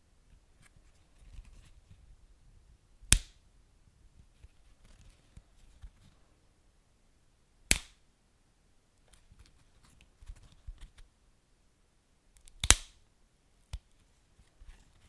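Wood fire burning in a fireplace: sparse faint crackles with three sharp, loud pops spaced four to five seconds apart, the last one near the end the loudest, followed a second later by a smaller snap.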